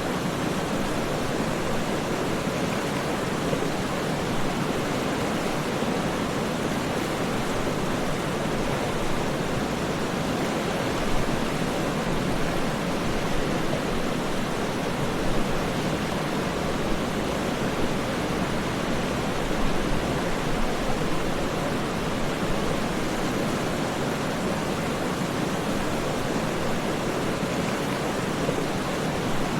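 Waterfall: a steady, even rush of falling water with no separate splashes or other sounds standing out.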